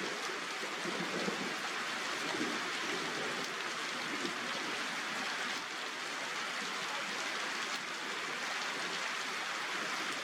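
Steady rain falling, an even hiss, with a faint low rumble in the first couple of seconds.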